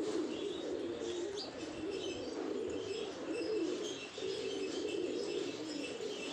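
A flock of pigeons cooing together in a dense, continuous chorus, with short high chirps from other birds over it.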